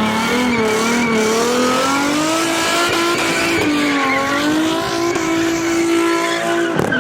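A car drifting, its engine held high in the revs with a pitch that wavers up and down while the tyres screech. A sharp crack sounds near the end.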